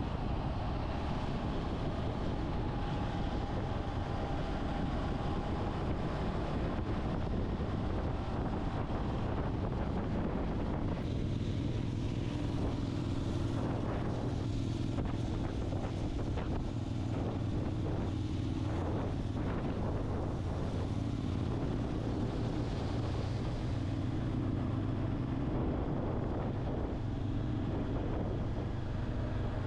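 Motorcycle engine running while riding, with wind buffeting the microphone. The engine note changes about eleven seconds in.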